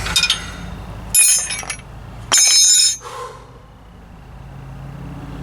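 Metal tools and parts clinking and rattling: a brief clink, then two loud bursts of about half a second each, about a second apart, with a ringing metallic edge.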